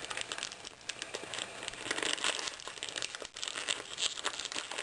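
Christmas wrapping paper crinkling and rustling in irregular crackles as a present is being unwrapped, with a little tearing.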